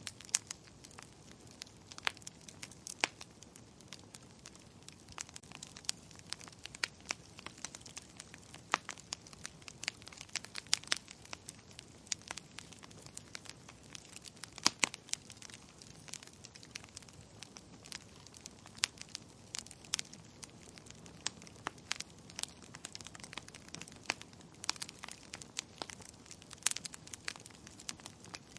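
Fireplace wood fire crackling: irregular sharp pops and snaps, a few louder ones, over a steady soft hiss.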